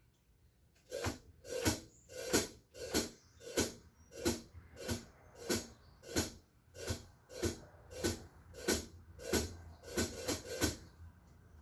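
A steady rhythm of about fifteen noisy swishing strokes, roughly three every two seconds, starting about a second in and stopping near the end.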